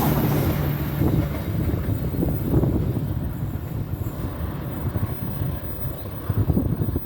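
Passenger train passing, a low engine hum and rumbling wheel noise that fade gradually as it moves away.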